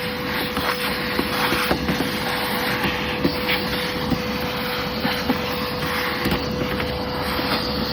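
Shop vac running steadily with a constant whine, vacuuming dirt off an air-conditioner condenser's coil fins, with scattered light knocks.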